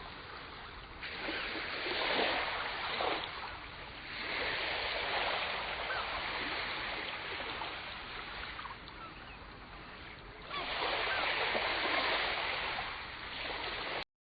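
Ocean waves surging and washing, a hiss that swells and eases in several waves, then cuts off abruptly near the end.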